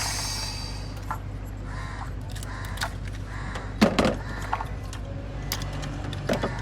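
Scattered metallic clicks and clinks of tools or parts being handled, the loudest a sharp knock about four seconds in, over a low steady hum.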